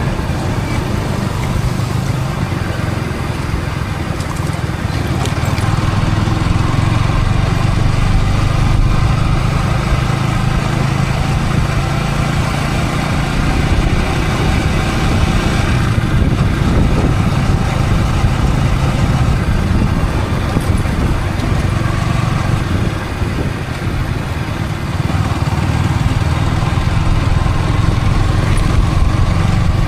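Yamaha R15 V3 motorcycle's single-cylinder engine running steadily while riding, picked up by a helmet-mounted camera, with the pitch shifting gently as the rider changes speed.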